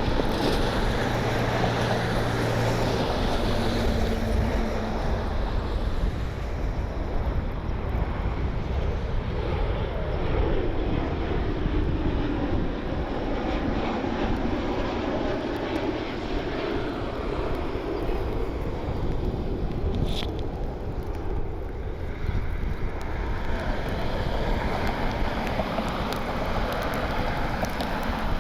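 Jet engines of a Southwest Airlines Boeing 737 on arrival, a steady rushing noise that swells as the airliner passes, loudest around the middle, then eases off.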